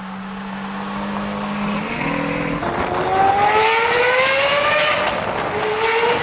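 A car accelerating hard, its pitch climbing steadily. Near the end the pitch drops suddenly as it shifts up a gear, then climbs again.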